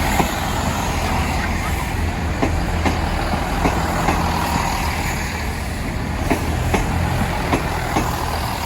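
A train passing close by: a steady low rumble with a run of sharp wheel clicks on the rails, coming irregularly about every half second.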